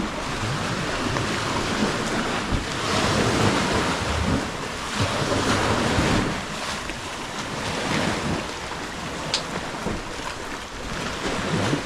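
Sea waves surging and washing onto the shore, swelling and ebbing every few seconds, with wind rumbling on the microphone.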